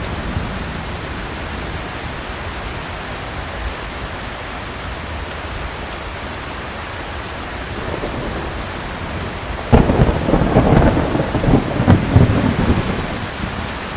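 Heavy rain falling steadily during a thunderstorm. About ten seconds in, a loud crack of thunder breaks in suddenly and rumbles on for about three seconds before dying back into the rain.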